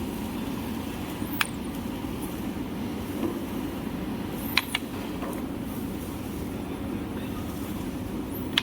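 Toilet-paper roll cutting machine running with a steady low hum, with a few sharp metallic clicks: one about a second and a half in, two close together around the middle, and one at the end.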